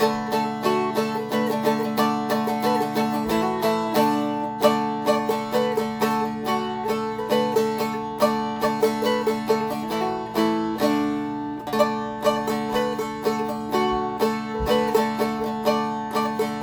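Seagull Merlin M4 flatpicked in D: a quick, even stream of single picked melody notes over open strings that keep ringing as a drone. It is the chorus melody, running from high down to low.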